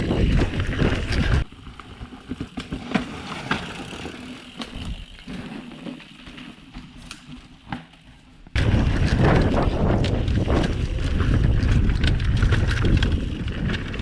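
Mountain bike being ridden down a dirt forest trail: tyres rolling and the bike rattling and clicking over bumps, under a loud low rumble. After about a second and a half it drops much quieter, leaving scattered ticks and rattles, and the loud rumble comes back about eight and a half seconds in.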